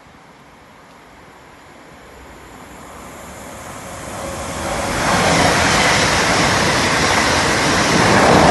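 Electric train approaching on the main line, its rolling and wheel-on-rail noise growing steadily over about five seconds, then a loud steady rush as it runs close past.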